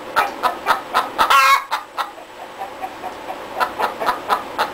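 Chicken clucking: a run of short clucks, a longer drawn-out call about a second and a half in, then another short run of clucks near the end.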